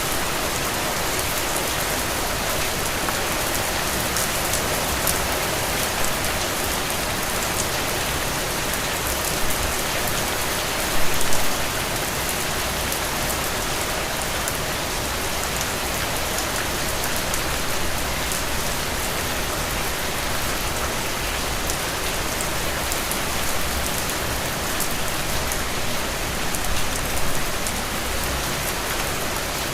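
Steady rain falling, a dense even patter with individual drops hitting a surface, swelling briefly a few times.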